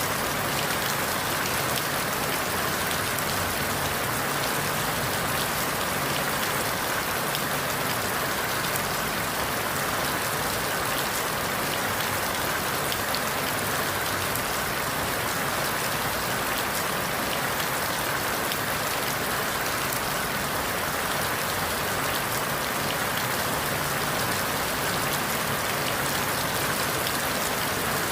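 Steady rain falling on forest leaves: an even hiss with scattered faint drop ticks.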